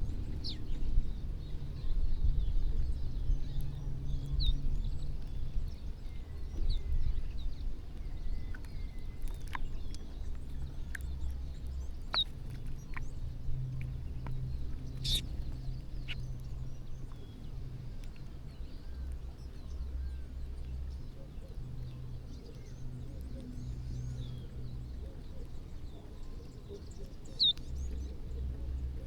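Birds chirping in short, scattered calls while feeding, with a few sharp clicks. A steady low rumble runs underneath.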